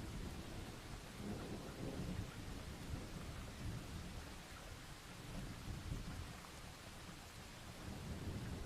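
Steady rain with distant thunder rumbling low underneath, the rumble rising and falling without any sharp crack.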